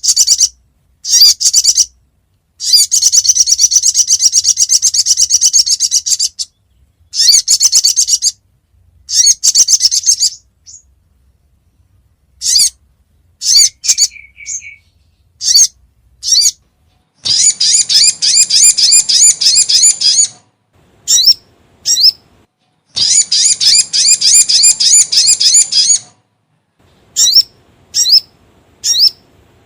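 Recorded song of the sogon (sogok ontong) bird played as a bird-trapping lure: high, rapid trilled phrases come in bursts, some lasting about three seconds, between short sharp rising notes and brief pauses.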